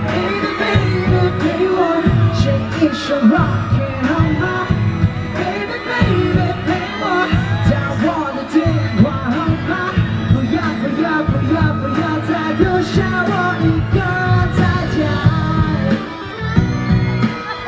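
Live pop-rock band playing a song, with a singing voice over the instruments.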